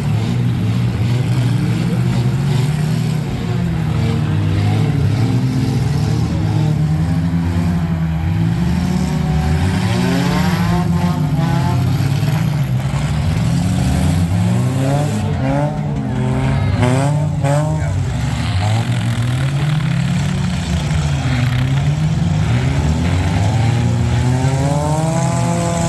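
Engines of several demolition-derby compact cars running and revving together, their pitch climbing and falling again and again as they push against one another.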